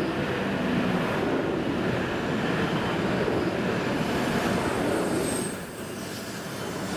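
E7 series Shinkansen train running slowly past on the station track, a steady rail rumble that eases slightly about five and a half seconds in.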